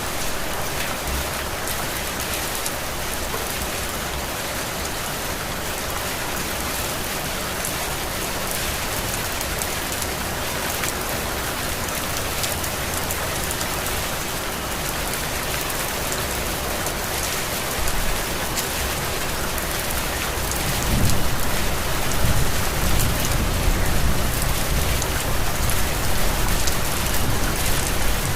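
Heavy rain falling steadily, hissing on surfaces. About three-quarters of the way through, a low rumble swells in under the rain and carries on to the end.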